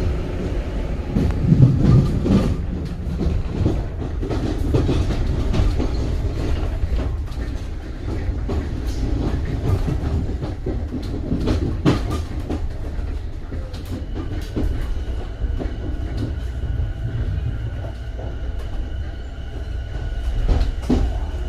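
Kawasaki M9 electric railcar running along the track: a steady low rumble with scattered sharp clicks of the wheels over rail joints. About two-thirds of the way through, a set of steady high tones joins the rumble.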